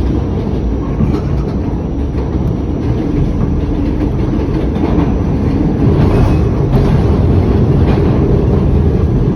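New York City subway Q train running along the track: a steady low rumble of wheels on rail, with a few faint clicks over rail joints in the second half.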